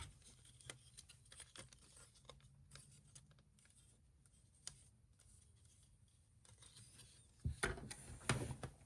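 Faint, scattered clicks of plastic action-figure parts being handled, with a cluster of louder clicks and rattles near the end.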